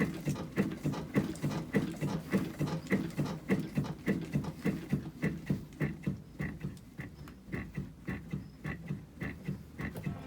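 Renault Kangoo 2 front suspension knocking in a fast, even rhythm, about three to four knocks a second, as the car is rocked up and down by hand. The knock comes from the worn front anti-roll bar bushings and anti-roll bar links.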